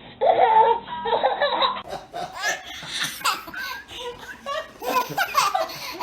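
Repeated bursts of laughter, a baby's giggles among adults' laughs. The sound changes abruptly about two seconds in, as if a different recording begins.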